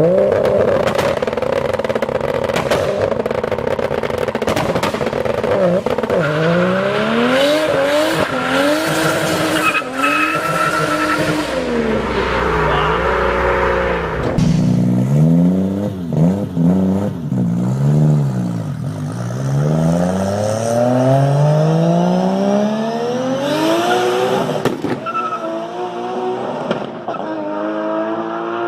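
Modified Nissan Skyline R34 GT-R's twin-turbo straight-six being driven hard, its revs rising and falling over and over, with tyres squealing.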